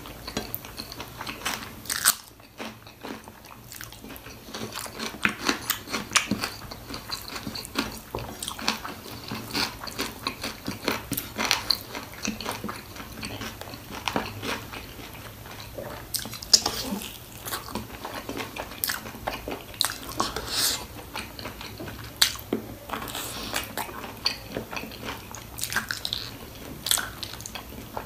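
Close-up eating sounds: a person biting and chewing goat trotters (mutton paya) with rice and gravy, with many irregular short clicks and crunches.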